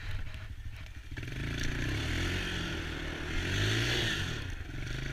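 Small ATV engine ticking over, then opening up about a second in, its pitch rising and falling as the rider revs and accelerates, with another rise near the end.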